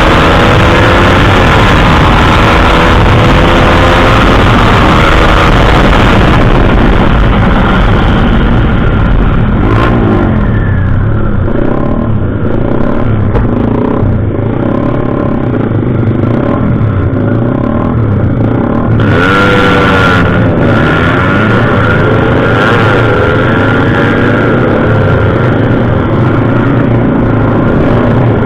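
Motorcycle engine being revved up and down repeatedly while its tuning is checked.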